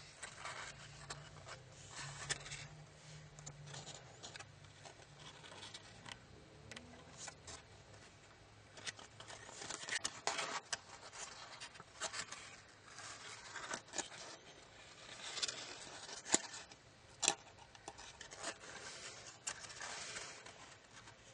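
Tissue-foil paper being folded and creased by hand: irregular rustling and crinkling with sharp crackles. The two loudest crackles come about a second apart, past the three-quarter mark.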